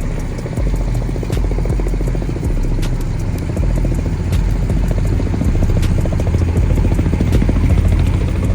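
A loud engine running steadily, with a fast, even pulse in its sound, getting somewhat louder in the second half.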